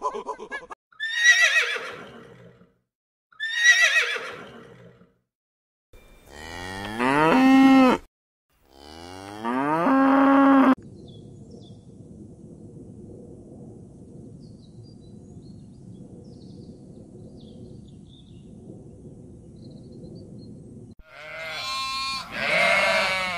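A run of separate animal calls: two short cries falling in pitch, then two long calls rising in pitch, a stretch of low steady background noise, and near the end a goat bleating.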